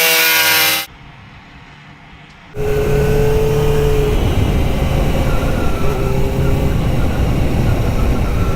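Motorcycle engine running steadily on the move, under a dense rushing rumble. An earlier loud sound cuts off about a second in, and a quieter gap follows before the engine comes in.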